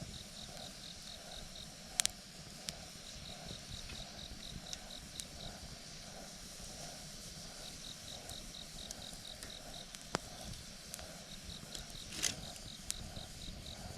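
Campfire crackling, with scattered sharp pops from the burning wood; the loudest come about two seconds in and near the end. Behind it an insect chirps in quick, even pulses, about five a second, in runs of a couple of seconds with short gaps.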